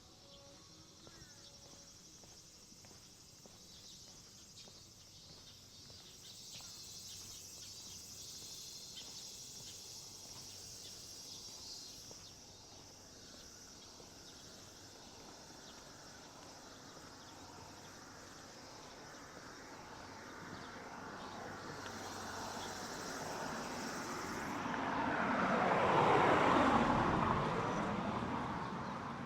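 A steady high chirring of insects, then a vehicle approaching and passing close by on the street, swelling to its loudest near the end and fading away.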